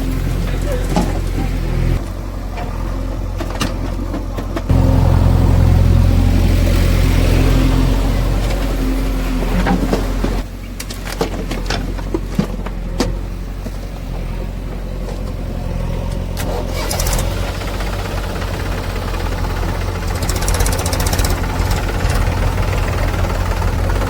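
Heavy diesel engine running, revving harder for about five seconds near the middle before dropping back, with scattered knocks.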